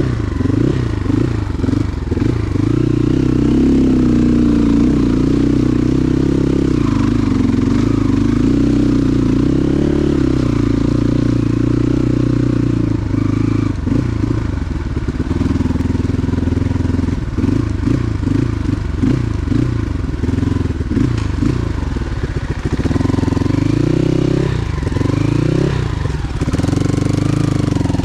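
Motorcycle engine running, a steady low drone whose pitch shifts up and down a few times.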